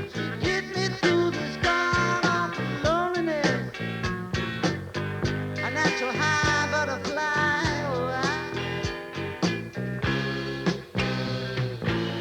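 Rock band playing an instrumental passage: drums, bass and guitar, with a lead line bending up and down in pitch twice.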